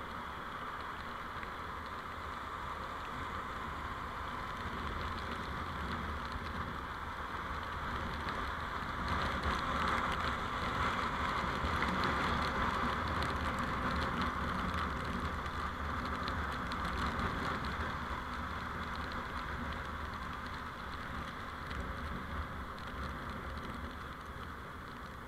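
Steady road and engine noise from a moving vehicle, swelling louder for several seconds in the middle and easing off near the end.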